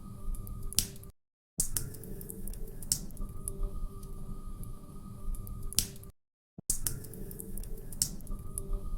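Log fire crackling in a fireplace: irregular sharp pops and snaps over a low steady rumble. The sound cuts out to dead silence twice, for about half a second each time.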